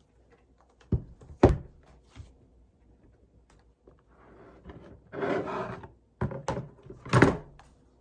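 Objects being handled indoors: a few sharp knocks and wooden thuds, with a second-long scraping noise about five seconds in.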